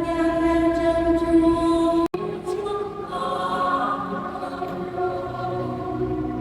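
Choir singing a hymn, holding one long note; the sound cuts out for an instant about two seconds in, then the singing goes on with moving pitches.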